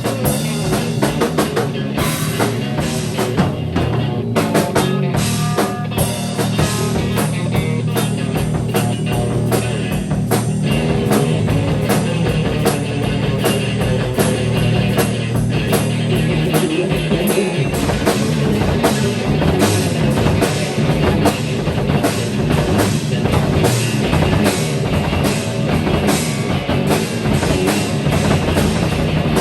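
Live rock improvisation by a band: a drum kit played with dense, rapid hits under sustained guitar.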